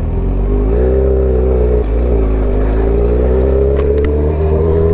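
2003 Yamaha R1's inline-four engine with a short aftermarket exhaust, running while the bike is ridden; its note rises a little about a second in, dips briefly around two seconds, then holds steady. A low rumble sits under the engine note throughout.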